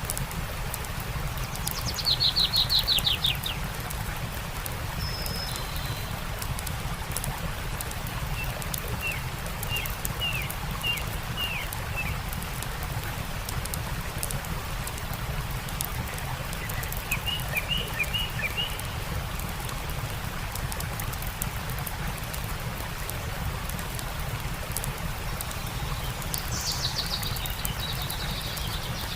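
Stream running steadily with a campfire crackling, while songbirds call. A loud rapid trill comes about two seconds in, short runs of chirps follow in the middle, and another trill comes near the end.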